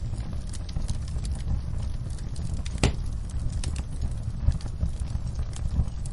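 Wood fire in a fireplace crackling: a steady low rumble of flames with many small snaps, and one sharper pop a little before the middle.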